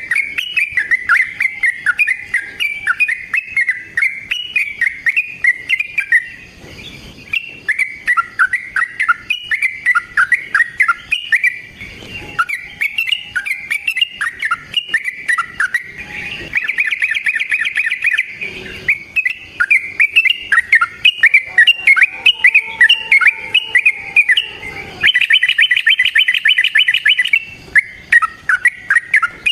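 Yellow-vented bulbul (trucukan) singing a long, rapid run of bubbly, chattering notes, broken twice by a fast, even trill, about halfway through and again near the end.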